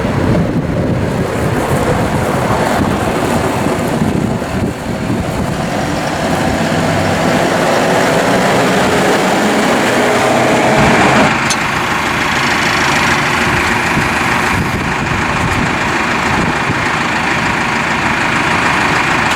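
2014 New Holland T4.95 tractor's diesel engine running. Its pitch climbs slowly for several seconds, drops off abruptly about halfway through, and then holds steady.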